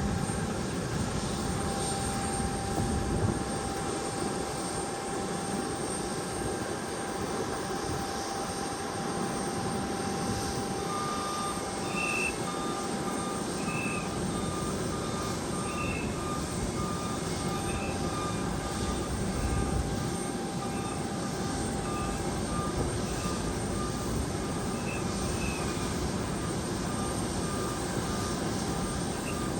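Airliner engines running steadily at an airport, a wide continuous rumble with faint steady whines. From about ten seconds in a faint rapid beeping joins it, along with short high chirps every couple of seconds.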